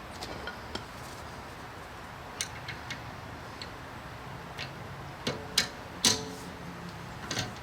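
Metal tools and parts clinking and clicking during wheel work: scattered light ticks, then two ringing metallic clinks a little after five and six seconds in, the second the loudest.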